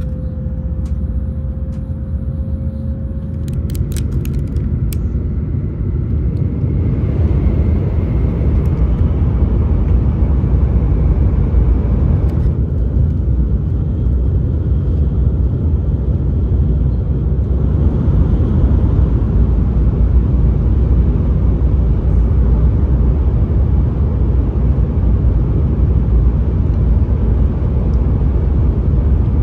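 Passenger train running, heard from inside the cabin: a steady low rumble that grows louder over the first several seconds and then holds. A few light clicks sound about four seconds in.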